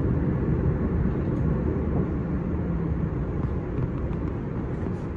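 S-Bahn train running, a steady low rumble that slowly fades.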